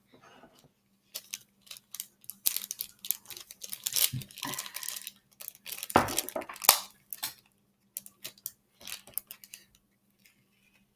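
A plastic package of beads being torn open and handled, with crinkling, tearing and a run of small clicking rattles as the beads spill into a container.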